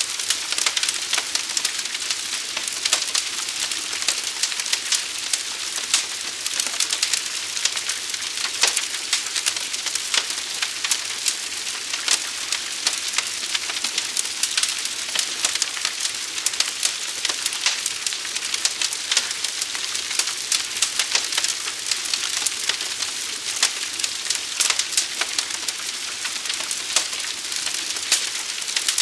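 Large fire burning: a steady hiss thick with crackling and frequent sharp pops.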